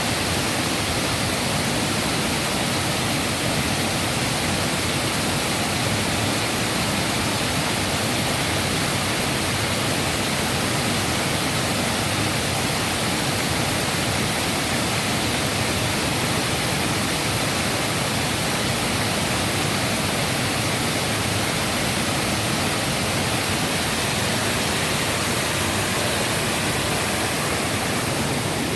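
Waterfall rushing: a steady, loud roar of falling water with no change in level.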